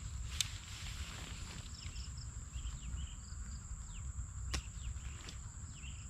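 Outdoor night-time-style ambience: a steady, high-pitched insect drone, with short bird chirps scattered through it and a low rumble of wind on the microphone. Two sharp clicks are heard, one about half a second in and one near four and a half seconds.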